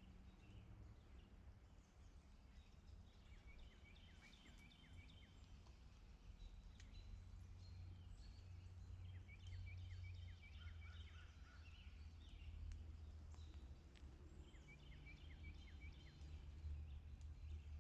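Faint bird song: a short phrase of quick chirps, repeated three times about six seconds apart, over a low steady rumble.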